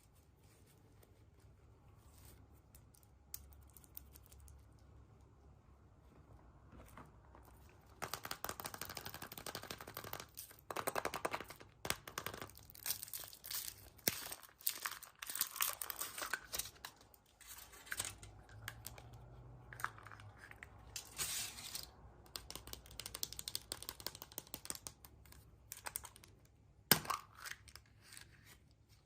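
A crinkly wrapper on a surprise egg being torn open and crumpled by hand, in dense, irregular crackling bursts from about a third of the way in. A single sharp snap comes near the end.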